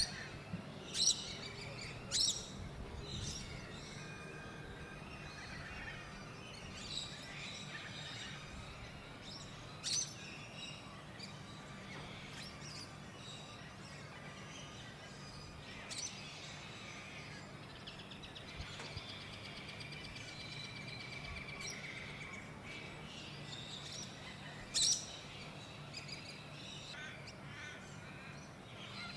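Birds chirping and calling now and then, with about half a dozen sharp, louder calls spread through, over a faint steady low hum.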